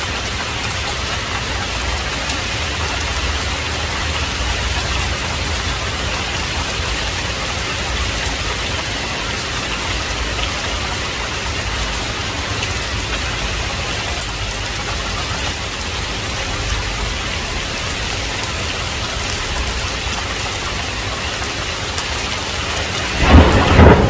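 Heavy rain falling steadily, with a sudden loud thunderclap near the end.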